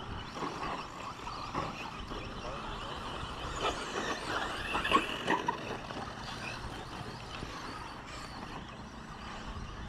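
Radio-controlled 2WD short course trucks racing: a steady mix of motor whine and tyres on the track, with a cluster of sharp knocks near the middle, the loudest about five seconds in.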